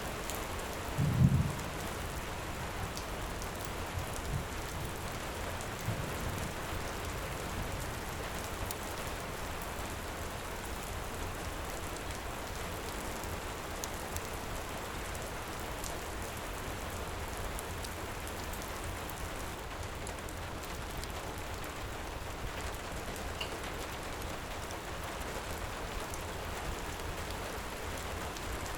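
Heavy rain falls steadily, with faint fire crackles. A short, loud low rumble of thunder comes about a second in, and two softer low bumps follow a few seconds later.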